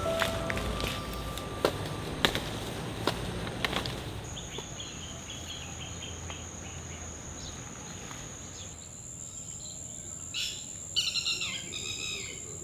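Outdoor nature ambience: a steady high-pitched insect trill sets in about a third of the way through, with a few sharp clicks before it and short bird chirps, loudest near the end.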